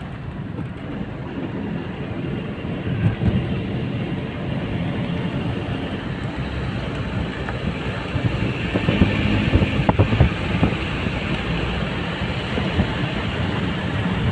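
Steady rumble of a vehicle in motion, engine and road noise, with a few knocks and jolts, the loudest about nine to ten seconds in.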